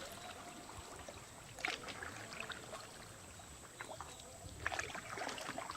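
Kayak paddles dipping into calm sea water: faint splashes and drips, one about a second and a half in and a few more near the end.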